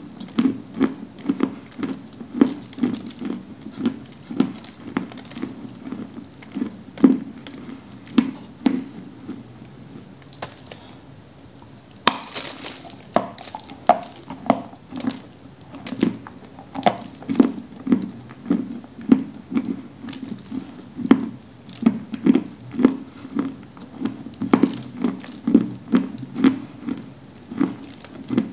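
Close-up chewing of dry Orsk 'cream' edible clay: crunchy chewing at about two chews a second. It pauses briefly around ten seconds in, then comes a louder crunch, and steady chewing resumes.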